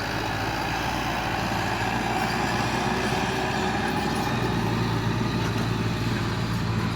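Excavator engine running steadily, its low drone growing a little stronger about four and a half seconds in.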